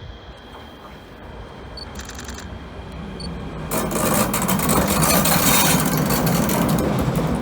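Train moving past the platform: a low rumble, then from about four seconds in a loud, dense rush of wheel and rail clatter.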